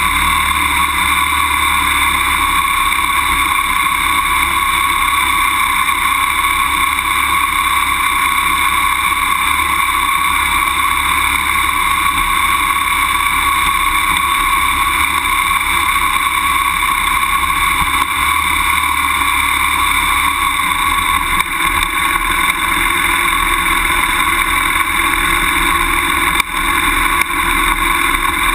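BMW F800GS motorcycle's parallel-twin engine running at a steady pace while riding down a grassy ski-slope trail, the engine note and riding noise holding even throughout, with a slight change in the low rumble after about twenty seconds.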